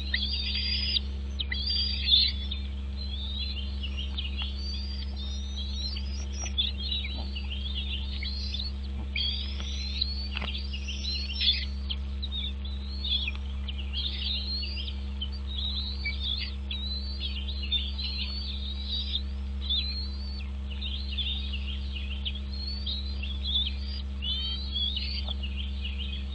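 Birds chirping continuously, many quick rising and falling high calls, over a steady low hum.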